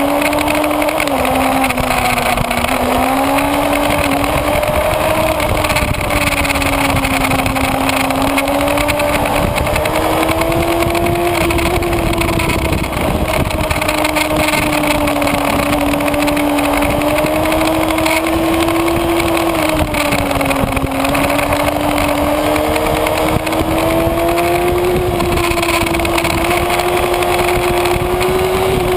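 Kawasaki Ninja ZX-6R inline-four engine running at high revs under way, its pitch drifting gently up and down with the throttle and no break, over a steady rush of noise.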